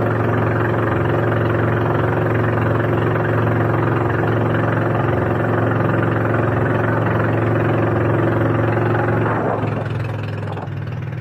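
A boat's engine running at a steady speed, with a constant droning note. About nine and a half seconds in, it eases off and goes quieter.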